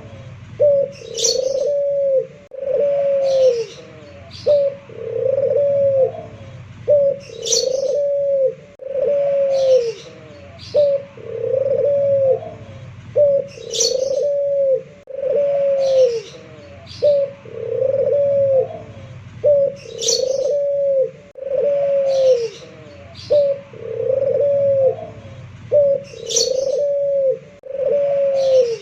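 A puter (domestic Barbary dove) cooing over and over in a quick series of low, arching coos, a 'pelung'-style voice. Short high chirps from another bird come in between, in a pattern that repeats about every six seconds.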